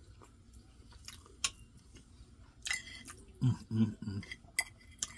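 A person chewing a mouthful of cube steak with rice and gravy, with wet mouth sounds and a few sharp clicks. There are a couple of short hummed voice sounds a little past halfway.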